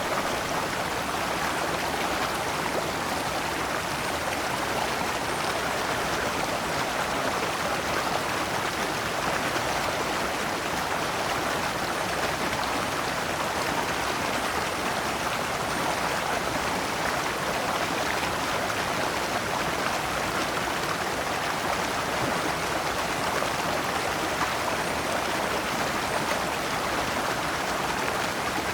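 Shallow rocky stream flowing over stones in small cascades, a steady rushing babble.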